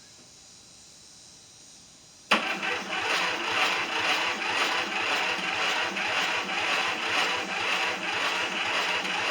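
Lawn tractor engine cranked by its electric starter, kicking in about two seconds in and turning over steadily with a pulsing beat without firing: the ignition is giving no spark.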